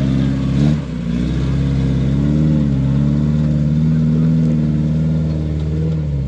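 Rock-crawling buggy's engine running under throttle, its pitch dropping briefly about a second in as the throttle comes off, then held fairly steady with small rises and falls.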